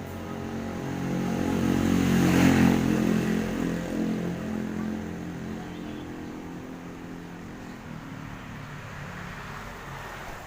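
A large bus's diesel engine running as it moves past, growing louder to a peak about two and a half seconds in, then settling to a steady lower rumble.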